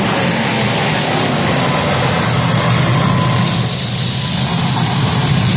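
Demolition derby car engines running together in a steady mix of engine noise.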